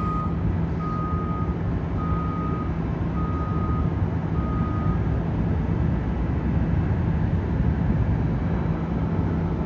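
A vehicle's reversing alarm beeping, one steady pitch, about four long beeps a little over a second apart, stopping about halfway through. Under it, a steady rumbling noise with a low hum.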